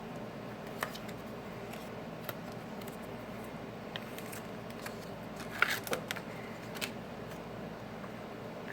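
Small sharp clicks and crinkles of a thin adhesive sheet and its plastic backing being handled by hand, with a cluster of them about five and a half seconds in, over a steady low room hum.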